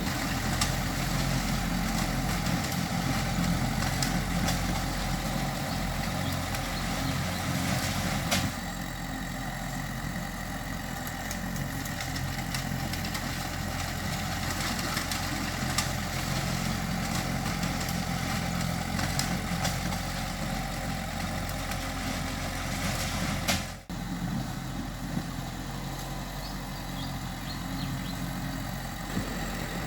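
Bulldozer's diesel engine running steadily at low revs. It eases down a little about eight seconds in, and the sound breaks off briefly about 24 seconds in.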